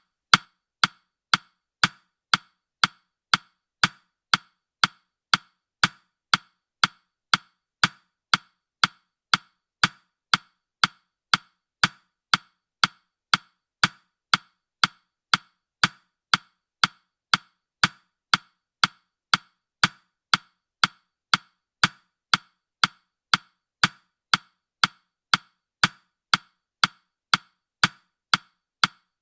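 Countdown timer's clock-tick sound effect: sharp, evenly spaced clicks, a little under two a second, with nothing else under them.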